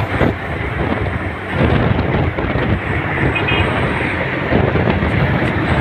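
Road traffic noise from heavy vehicles on a highway: a loud, steady rush.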